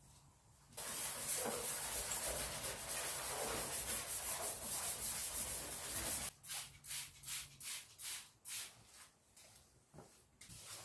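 Sandpaper rubbing on a car hood's painted surface, scuffing the flaking clear coat before repainting. First comes a continuous run of quick back-and-forth strokes, then separate slower strokes of about two or three a second.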